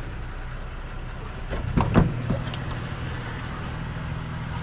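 Truck engine idling steadily, with a few short knocks about two seconds in.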